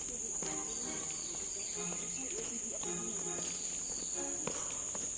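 Steady, high-pitched insect drone of a tropical forest, one unbroken shrill tone with no pauses.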